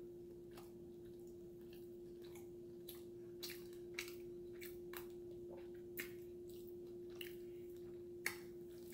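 Person chewing and biting into a hamburger, with soft mouth clicks and smacks about once a second, loudest near the end. A steady faint hum runs underneath.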